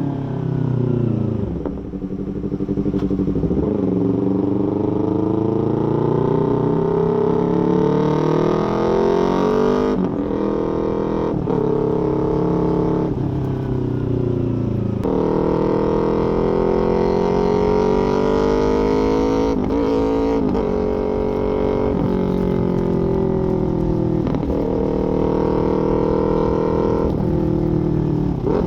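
A small parallel-twin sport bike running through a full exhaust system. The engine revs and shifts through the gears: the pitch dips in the first two seconds, then climbs and is cut by several quick gear changes.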